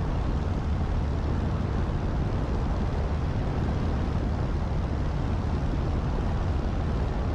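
Single-engine light aircraft's piston engine and propeller droning steadily in flight, with a deep low rumble and an even rushing noise above it.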